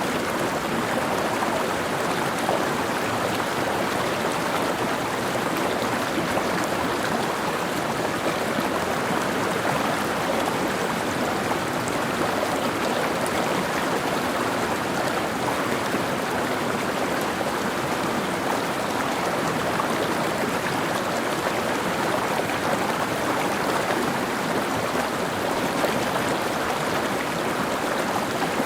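A mountain stream running over rocks: a steady rush of flowing water with gurgling.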